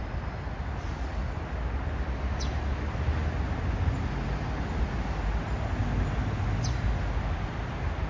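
Steady low rumble of outdoor traffic noise, with two brief faint high chirps.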